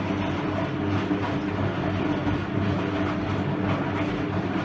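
Hoover Electra 535 washing machine tumbling its drum in the first rinse: a steady motor hum with a rumble from the drum.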